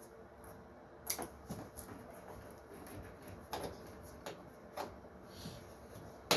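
Scattered light clicks and taps of small parts being handled, with a sharper click near the end.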